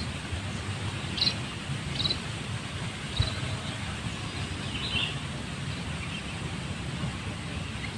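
A few short, high bird chirps, spaced a second or two apart, over a steady low rumble of wind and rustling.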